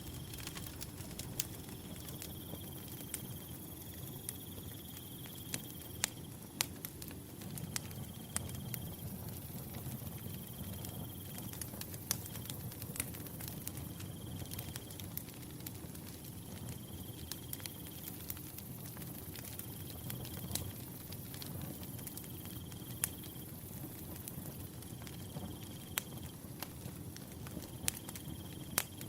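Wood fire burning, with a low steady rush of flames and irregular sharp crackles and pops from the firewood. A cricket chirps in short trills about every two and a half to three seconds.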